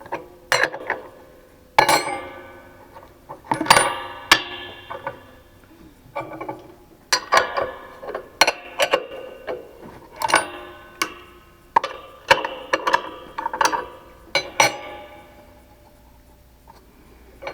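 Hard objects clinking and clattering as they are handled and set down on a workbench, a dozen or so irregular knocks that each ring briefly, fewer and quieter near the end.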